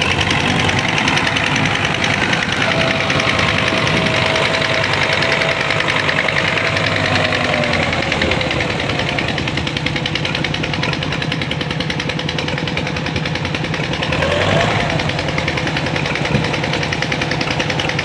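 Old tractor engine running steadily, driving a water pump, with a rapid, even knocking beat.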